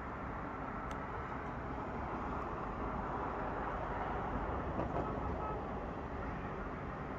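Steady vehicle or road-traffic noise, an even low rumble with no speech over it, with a couple of faint clicks.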